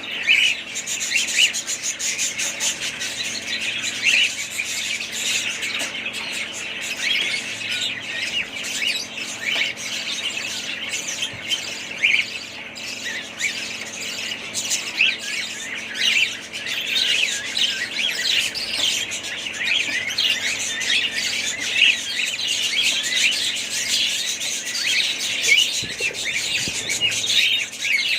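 A flock of budgerigars chirping and chattering without pause, many short high calls overlapping.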